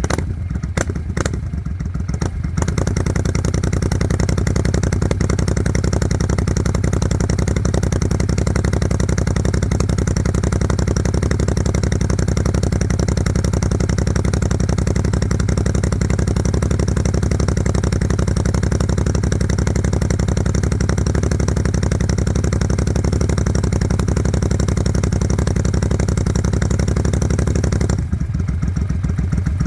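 Suzuki Volusia's V-twin engine running through an aftermarket Vance & Hines exhaust. It idles with a lumpy pulse, then about two seconds in it rises to steady, raised revs that it holds. Near the end it drops back to idle.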